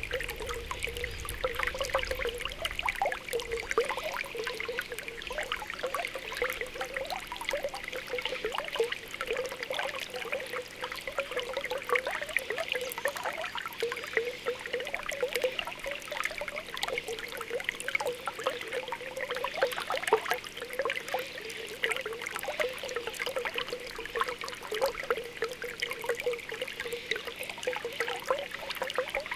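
Spring water welling up from the ground with continuous soft popping and gurgling bubbles over a steady trickle.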